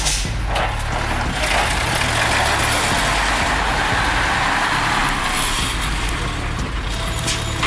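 Truck running on the road: a steady low engine hum under a broad rush of road and wind noise.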